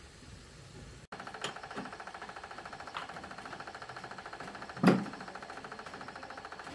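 A machine running with a fast, even pulsing that starts abruptly about a second in, with a few sharp knocks over it, the loudest about five seconds in.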